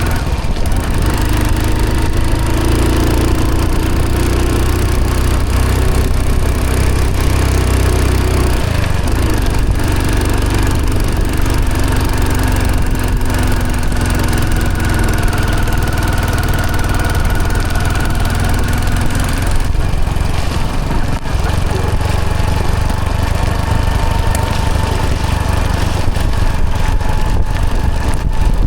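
1995 Hero Honda CD100's single-cylinder four-stroke engine running on the move, its pitch shifting up and down as the speed changes, over steady road noise.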